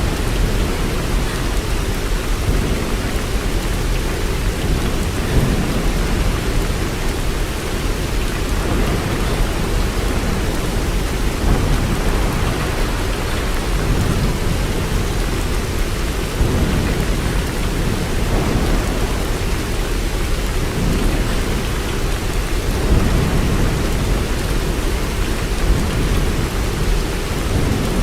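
Steady heavy rain, with a deep low rumble under the hiss that swells slightly now and then.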